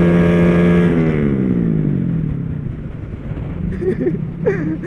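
Motorcycle engine held at high revs, then dropping steadily in pitch as the throttle is eased off about a second in, leaving road and wind rumble.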